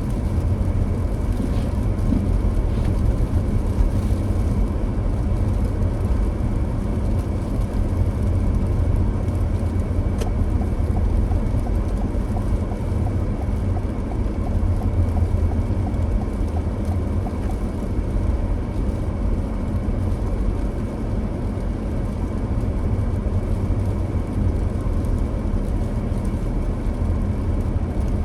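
Car driving at a steady pace: a continuous low rumble of engine and tyre noise that holds even throughout.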